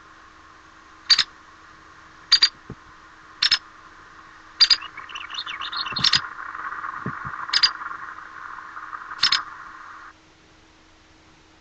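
White-headed woodpecker calling: seven sharp, doubled call notes about one to one and a half seconds apart, with a brief quick chatter between them partway through.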